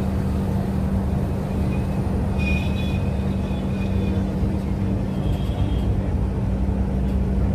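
Express train running: a steady low rumble with a constant hum, and faint high-pitched tones briefly a few seconds in.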